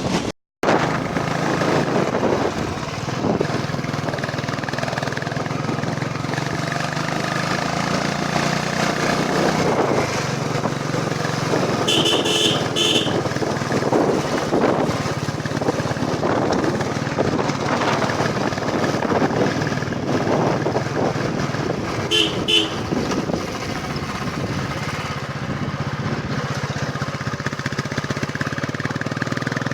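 Royal Enfield Bullet Classic 350's single-cylinder engine running steadily on the move, with a vehicle horn beeping a few times about twelve seconds in and twice more about twenty-two seconds in.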